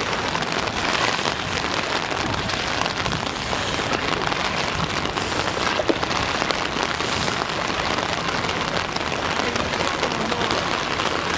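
Heavy rain falling steadily, a dense hiss of drops with many small ticks.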